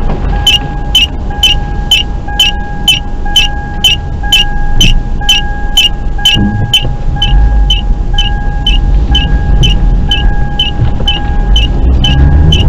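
Low rumble of a moving car, with a sharp electronic tick about twice a second over a steady tone that breaks in step with the ticks.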